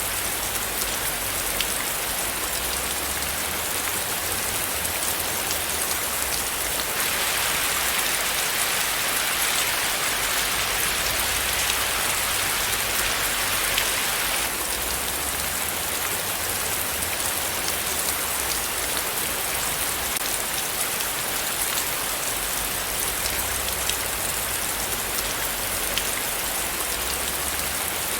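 Steady rain falling, a dense hiss of many small drop ticks on a surface. For several seconds in the middle it grows a little louder and brighter, as if the downpour briefly strengthens.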